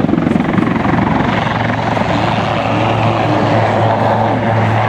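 Westland Lynx helicopter flying past, its main rotor chopping in a rapid even pulse over the running of its twin Rolls-Royce Gem turboshaft engines, with a tone that wavers up and down in pitch about halfway through.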